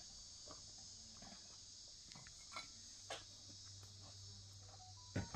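Faint, steady chirring of insects such as crickets, with a low hum beneath and a few sharp clicks or taps, the loudest just after five seconds in.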